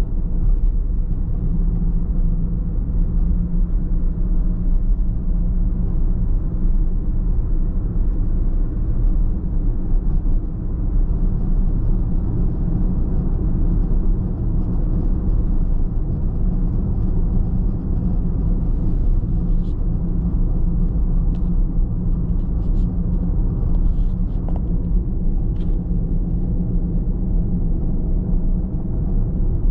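A car driving at steady speed, with a constant low rumble of road and engine noise. A few faint light ticks come in the second half.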